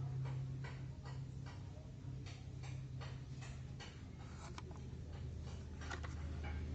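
Irregular light ticks and clicks, a few a second, over a steady low hum that drops in pitch a little past halfway.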